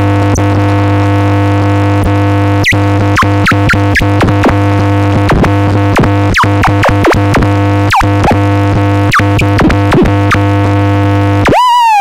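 Experimental dark ambient electronic music: a steady buzzing synth drone of many layered tones, with quick swooping pitch blips darting over it. Near the end the drone cuts out and a single warbling tone takes over, its pitch wobbling up and down.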